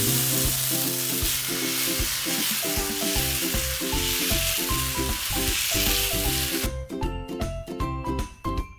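Dosa batter sizzling on a hot cast-iron tawa as it is poured and spread with a ladle. The sizzle cuts off suddenly near the end, leaving light background music with a steady beat that plays underneath throughout.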